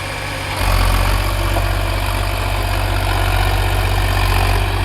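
Diesel tractor engine running with a steady low drone. It picks up a little about half a second in and then holds even.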